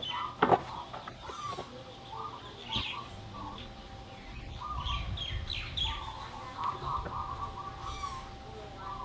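Small birds chirping in repeated short notes, with a sharp click about half a second in.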